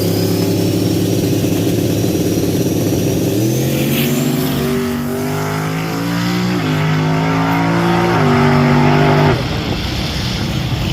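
Drag-racing car engine running at high revs, its pitch held steady and then rising in several steps, with a faint rising whine above it early on.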